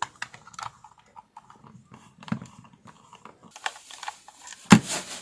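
Screwdriver working a small Phillips screw out of the plastic casing of an electric lint remover: a run of small clicks and scrapes of the tool and plastic, with one louder sharp click near the end.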